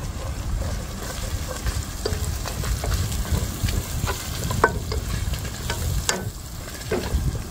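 Chopped onion, tomato and whole spices frying in oil in a non-stick pot, sizzling while a silicone spatula stirs and scrapes through them, with scattered short scrapes and taps. The masala is being fried down (bhuna).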